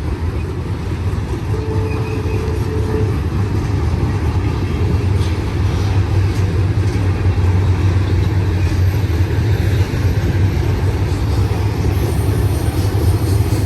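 A BNSF double-stack intermodal freight train's container well cars rolling past: a steady low rumble of wheels on rail with faint clicks, slowly growing a little louder.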